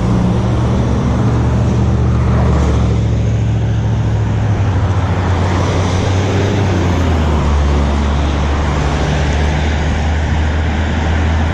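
Steady, loud, low rumble of road and traffic noise heard while riding a bicycle along a city street.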